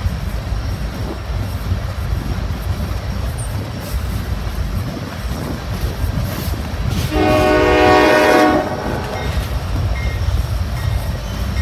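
Norfolk Southern freight train rolling past, its diesel locomotives and tank cars making a steady low rumble on the rails. About seven seconds in, a locomotive horn sounds one chord for about a second and a half.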